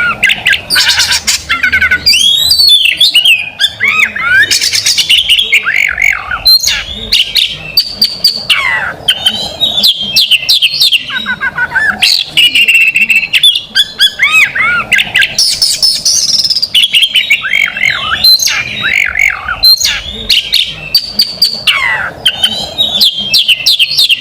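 Oriental magpie-robin (kacer) singing loudly and almost without pause: a fast, varied song of sliding whistles, rapid trills and harsh chattering notes, the bird's prized contest song.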